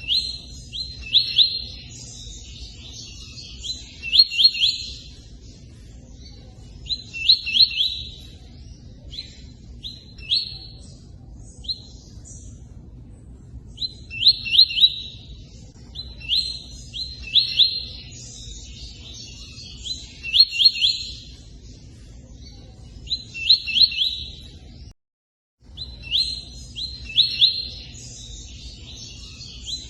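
Tui-tui bird singing: short bursts of quick, high chirps repeated about every three seconds, over a faint steady rush of running water. Everything cuts out for about half a second near the end.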